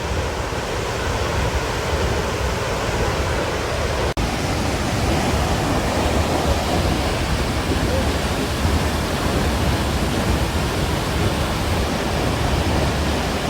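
Steady, loud rush of water from the 120-foot High Falls of the Pigeon River, cutting out for an instant about four seconds in.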